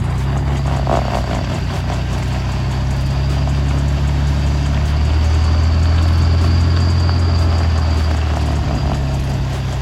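A Toyota Landcruiser's engine running steadily at low speed, its note shifting slightly about halfway through.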